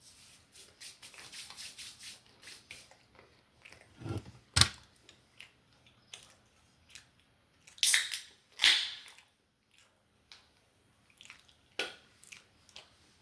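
Close-miked eating: a person chewing and biting food. There is a crackly run in the first few seconds, a sharp knock about four seconds in, and two louder bursts around eight seconds.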